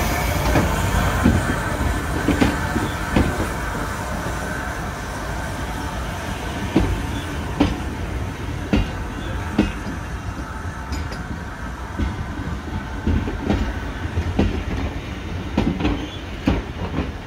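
Railway passenger coaches rolling past over jointed track, a steady rumble with sharp wheel clicks at the rail joints that come mostly in pairs, one pair every second or two.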